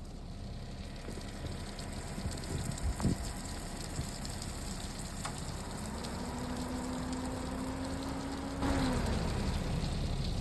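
Steady hiss of water and wet street noise, with a click about three seconds in. A low hum rises past the middle, holds for about three seconds and stops, after which the hiss grows louder.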